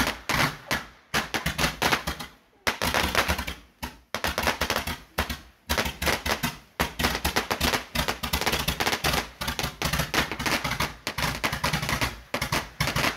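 Fireworks going off in quick succession: a rapid run of sharp bangs and crackling pops, with a few short breaks in the first few seconds before it runs on densely.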